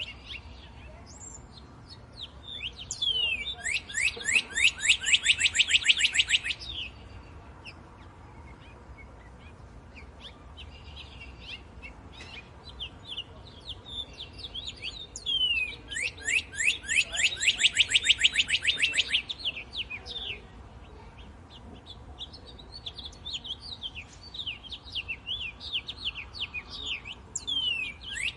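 Northern cardinal singing: phrases of clear down-slurred whistles that speed up into a fast run of falling notes. It comes twice, and a third phrase starts near the end, with softer scattered chirps between.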